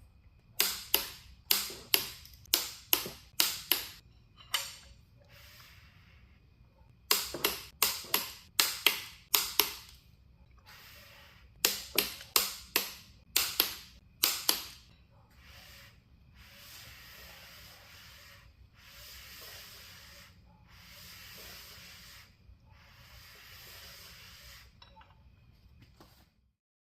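Hand wrench tightening the connecting-rod bolts of a GM LS V8: three runs of sharp, loud metallic clicks a few tenths of a second apart, then five rasping stretches of about a second each.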